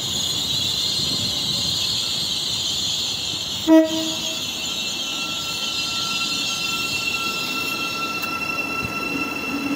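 Class 700 electric multiple unit on the move, a steady rush of wheel and running noise, with one short horn toot about four seconds in. From about five seconds a thin, steady high whine joins it.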